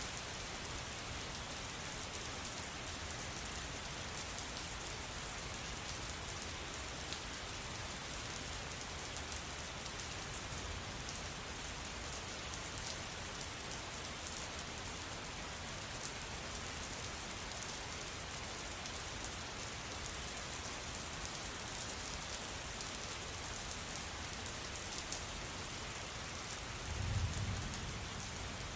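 Steady rain falling, with fine drop ticks through the hiss. Near the end there is a brief low rumble.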